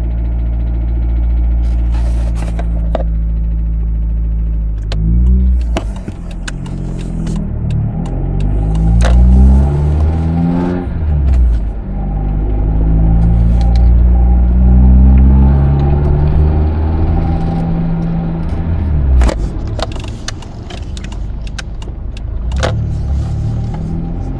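2000 Mitsubishi Eclipse engine idling steadily, then revved up and down repeatedly from about five seconds in, with scattered sharp clicks. This is the strange engine sound the owner wants identified.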